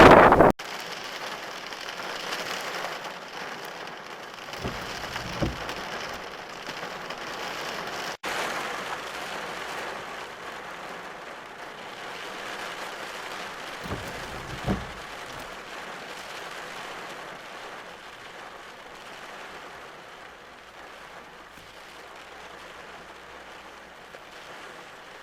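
Heavy rain falling steadily, an even hiss that slowly grows quieter. Two brief low thuds break through, about five seconds in and again near fifteen seconds.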